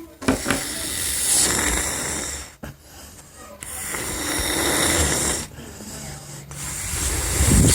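A person blowing hard into a colour balloon toy: three long breathy rushes of air, each a couple of seconds long, with short pauses between them to draw breath.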